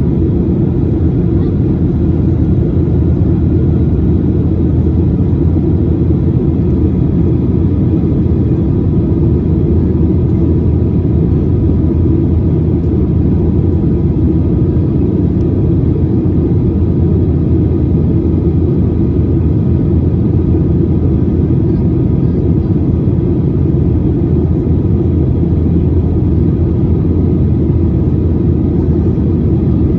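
Steady cabin noise inside a Boeing 737-800: a constant low rumble of its CFM56 engines and the air around the fuselage, unchanging throughout.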